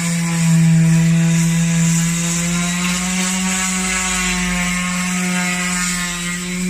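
A motor running with a steady mechanical hum, its pitch shifting slightly a couple of times.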